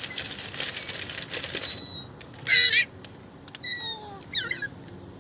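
Birds squabbling over thrown food: a hiss with quick small clicks, then a loud harsh call about halfway through, followed by two shorter calls.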